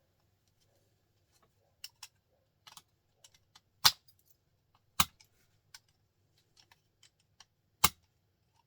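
Irregular sharp metallic clicks and taps from prying the steel end cap off a small printer motor, with a few louder knocks about four, five and eight seconds in.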